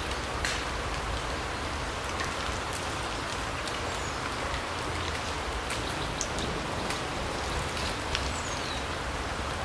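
Steady rain hiss with many scattered individual drops ticking, and a few brief high bird chirps.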